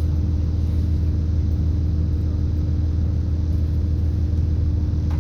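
Steady low rumble inside a British Rail Class 170 Turbostar diesel multiple unit, its underfloor MTU turbo-diesel engine and Voith hydraulic transmission running, with a steady hum over the drone.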